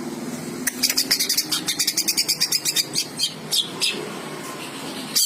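Cucak ijo (green leafbirds) singing: a fast run of sharp, high chirps, several a second, starting just under a second in and thinning out into a few separate notes toward the end.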